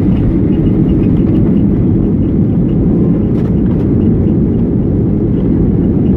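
Steady cabin rumble inside a Boeing 737-800, heard from a rear window seat: CFM56 engine and airframe noise, low and unbroken.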